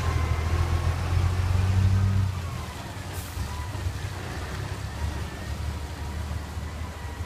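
Heavy diesel engine of a ten-wheel dump truck running with a low, steady drone. About two seconds in it drops noticeably in level and carries on more quietly.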